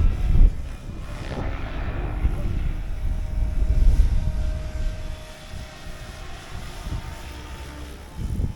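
Radio-controlled helicopter in flight, its rotor and motor giving a steady whine, under a heavy low rumble of wind on the microphone that eases off about halfway through.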